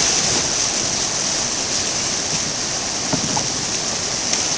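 Steady rush of water pouring over a river waterfall and rapids, a constant hiss with no break.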